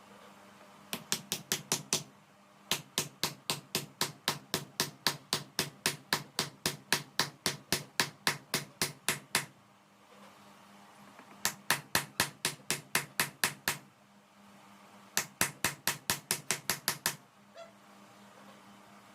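Hammer striking steel in rapid, even blows, about four or five a second, in four runs separated by short pauses, the longest lasting several seconds.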